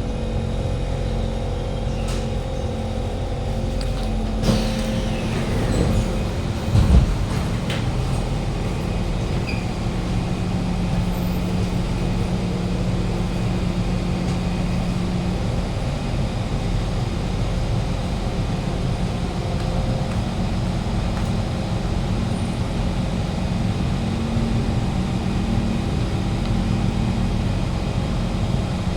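Inside a moving Kawasaki C151 metro train: steady wheel-on-rail rumble under the whine of the GTO-VVVF traction inverter and motors. There is a falling tone about five seconds in and a heavy knock about seven seconds in.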